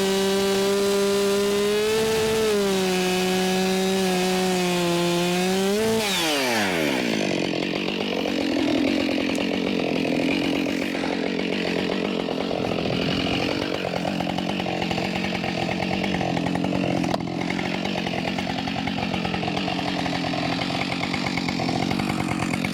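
Husqvarna 572 XP two-stroke chainsaw held at full throttle for about six seconds, the pitch sagging slightly as it cuts through small trees. Then the throttle is released, the pitch drops steeply, and the saw runs unevenly at lower revs.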